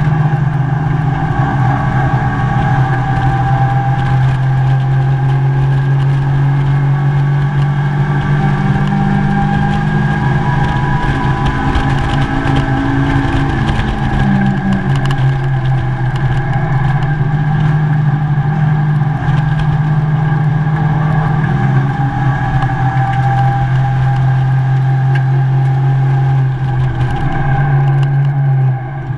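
Mazda MX-5 race car's four-cylinder engine running hard at high revs, heard from inside the cabin. The note shifts pitch a few times and drops briefly near the end.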